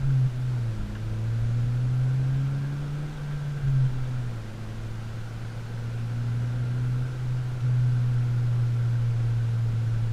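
Exhaust note of a 2013 Honda Civic Si's four-cylinder engine through an AP aftermarket muffler with the factory resonator kept. The pitch climbs under acceleration, drops at gear changes just after the start and about four seconds in, then holds steady as the car cruises.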